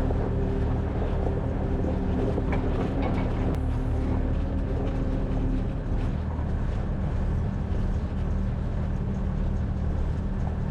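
An engine running steadily, a low even hum whose note shifts slightly about halfway through, with a few faint clicks early in the middle.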